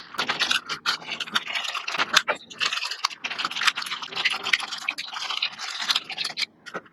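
A straw stirring a cup of coffee boba tea: quick, continuous scratchy scraping and rattling of the straw and the drink's contents against the cup.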